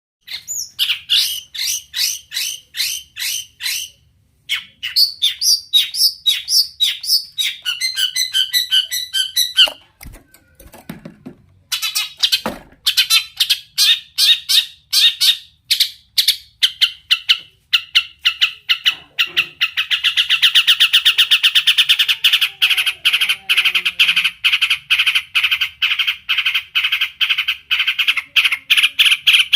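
Long-tailed shrike (cendet) singing loud, fast and varied: strings of short, harsh repeated notes, with brief pauses, and a rapid rattling trill from about twenty seconds in.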